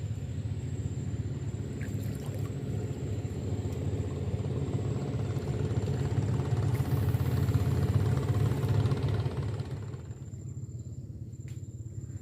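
Small boat engine running steadily with a low hum. It grows louder, then drops back about ten seconds in.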